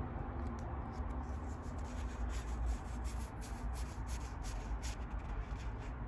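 Pokémon trading cards being handled and slid past one another as a pack is flipped through, making light rubbing swishes and small card clicks over a steady low background hum.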